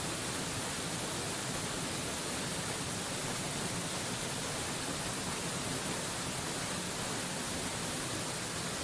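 Waterfall: a steady, even rush of falling water, unchanging throughout, heard as a smooth hiss.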